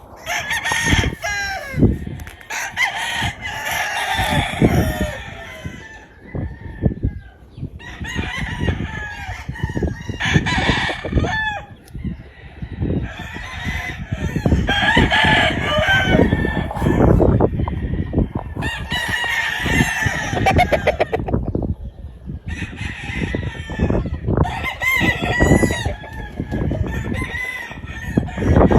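Gamefowl roosters crowing repeatedly, several calls overlapping in about five bouts, over a constant low rumbling noise.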